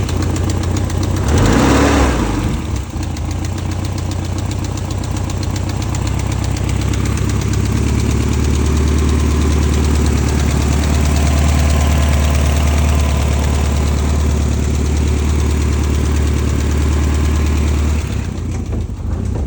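BMW E30 M3's S14 four-cylinder engine idling with a rapid ticking noise, at 170,000 miles. A brief louder burst comes about two seconds in, and the low hum drops away near the end.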